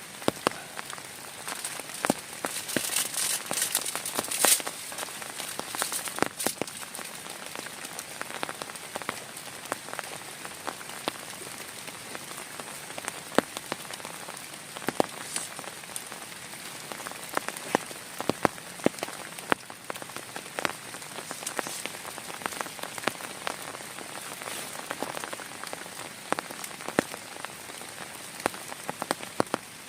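Heavy rain falling steadily, with many individual drops striking close by in sharp, irregular taps over a continuous hiss.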